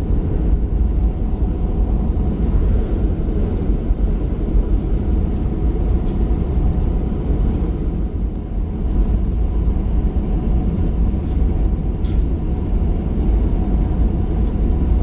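Steady rumble of a pickup truck driving on the road: engine and tyre noise heard from inside the cab, with a few faint ticks.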